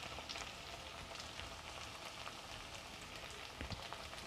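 Potato slices in onion-tomato masala sizzling faintly in an oiled non-stick pan, with light crackling ticks.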